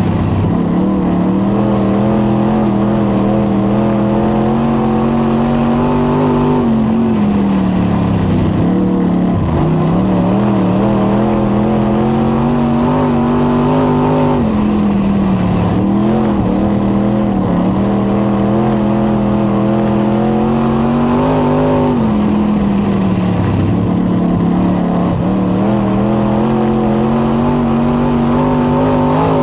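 Late model race car's V8 engine running hard around a short oval. Its pitch holds high on the straights, then drops and climbs back about every seven to eight seconds, four times, as the throttle is lifted for the turns and reapplied.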